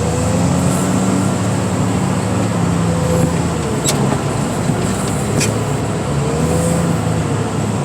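Diesel engine of heavy car-crushing equipment running steadily, its pitch rising and falling slightly, with two sharp clicks about four and five and a half seconds in.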